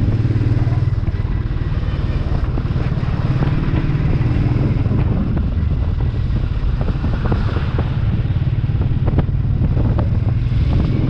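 Royal Enfield 350 single-cylinder motorcycle engine running steadily on the move, a low even drone with scattered small clicks over it.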